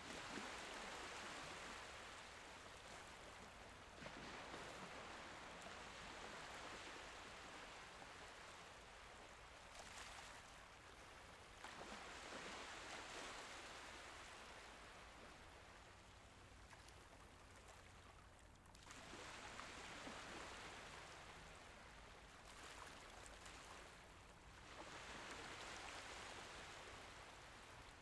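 Faint, gentle sea waves washing in and drawing back, a soft rush that swells and fades in slow surges every four to seven seconds.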